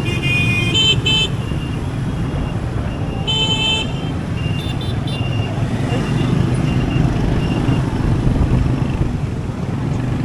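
City traffic heard from a moving motorbike taxi: a steady rumble of engine, road and wind, with vehicle horns tooting several times. There is a cluster of short toots at the start, another about three seconds in, and fainter ones around five seconds.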